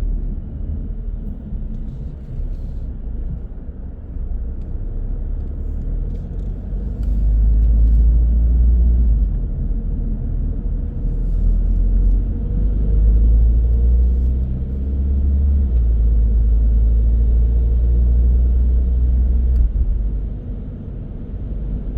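A car being driven on the road: a steady low rumble of tyres and engine. It swells louder about a third of the way in and eases off again shortly before the end.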